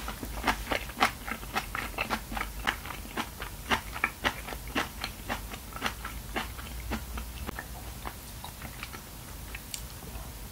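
Close-miked chewing of a mouthful of aged-kimchi braised spicy chicken: quick sharp mouth clicks, packed closely for about the first seven seconds, then sparser.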